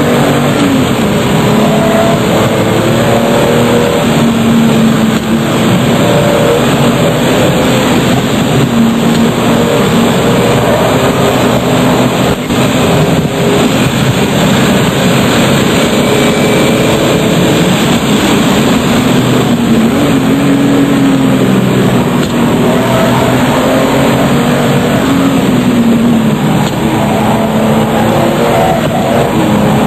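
RUF CTR Yellow Bird's twin-turbocharged flat-six driven hard. The engine note climbs with the revs and drops back at each gear change, over and over.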